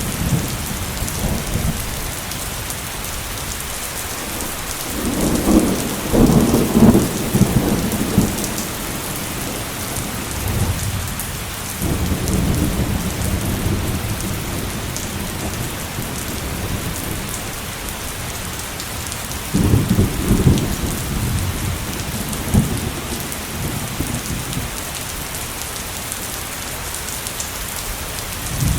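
Heavy rain falling steadily, with rolls of thunder rumbling several times: a strong roll about five seconds in, a longer one around twelve seconds, and another near twenty seconds.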